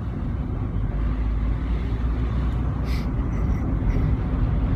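Smart car driving at low speed, heard from inside the cabin: a steady low rumble of engine and road noise, with a short click about three seconds in.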